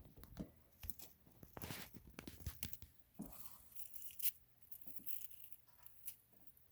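Leopard gecko shedding its skin: dry, crunchy crackling and tearing as the old skin comes away. The crackles come in irregular runs, thickest in the first half, with one sharp click a little after four seconds in.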